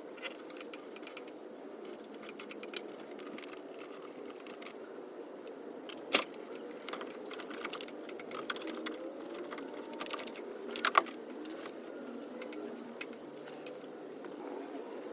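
Scattered light clicks and taps of hand tools and plastic trim being worked loose inside a car, with two sharp knocks about six and eleven seconds in, over a steady low hum.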